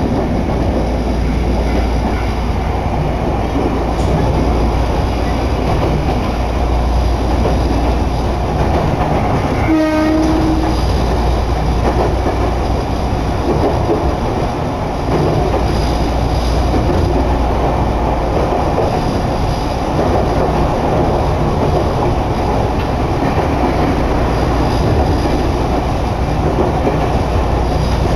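Steady running noise of a Nagano Electric Railway train heard from inside the car, wheels on rails and traction equipment rumbling on. About ten seconds in a horn sounds once, briefly, as a single held tone.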